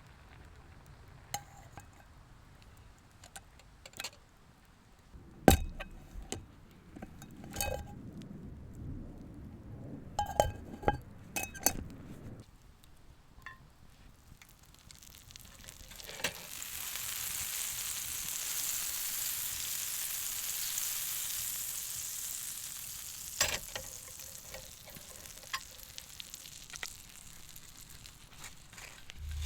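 Metal cookware clinking and scraping as food is stirred, then food sizzling in a hot pan for several seconds about halfway through, fading off, followed by a few more clinks.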